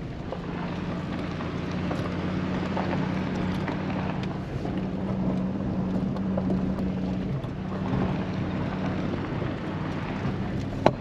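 Full-size pickup truck's engine running steadily under load as it climbs a steep, narrow dirt forest road, with road noise from the tyres and a small knock near the end.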